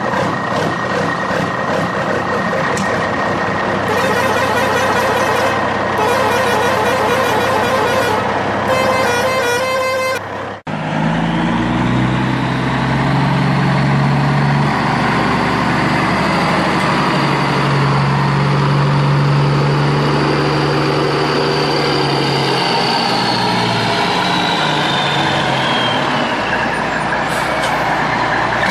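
Truck horn and engine sounds: steady horn-like tones for the first ten seconds, then an abrupt change to a low steady engine drone with a high whine that slowly rises and then falls.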